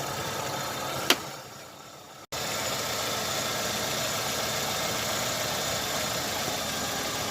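Chevrolet Optra's four-cylinder petrol engine idling roughly with a misfire, shaking on its mounts. The mechanic traces the miss to weak ignition coil output on cylinders 2 and 3. A sharp click comes about a second in, and the sound drops away and cuts back in abruptly a little after two seconds.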